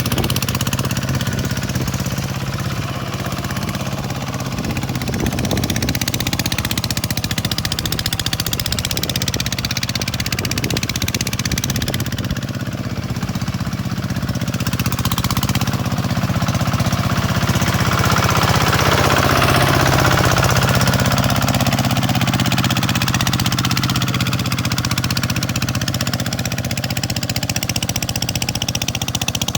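Tractor diesel engine running steadily with a rattling clatter, growing louder and higher for a few seconds past the middle before settling back.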